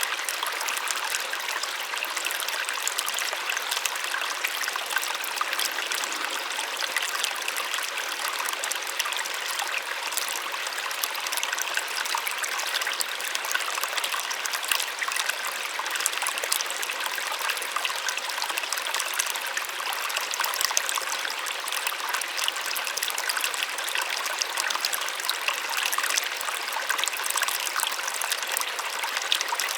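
A small waterfall splashing steadily, a soft, even rush of falling water with fine splashing.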